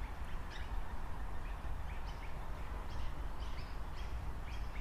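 Small birds chirping over and over in short high notes, over a steady low rumble of outdoor background noise.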